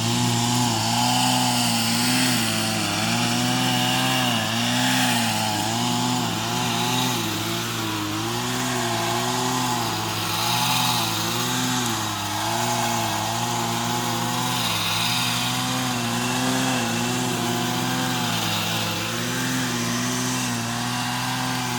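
A Stihl gas-powered pruning saw's engine runs at high revs, its pitch dipping and recovering again and again as the chain cuts.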